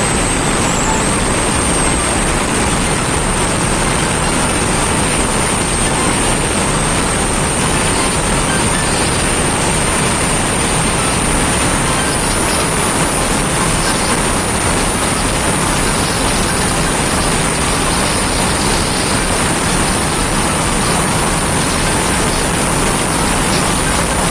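A motorcycle on the move: steady wind rush and road noise over the microphone, with the engine buried in it and a thin high whistle running through.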